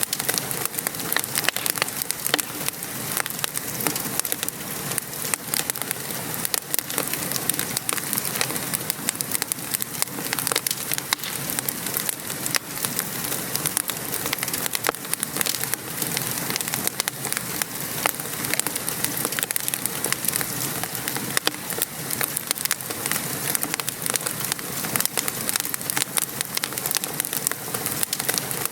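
Steady patter of rain mixed with a wood fire crackling, with frequent small sharp pops and snaps throughout.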